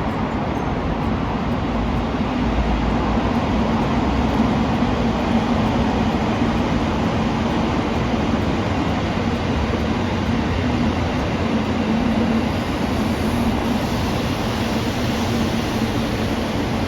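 A train running past, a steady rumble of wheels and running gear with a low hum, swelling slightly through the middle.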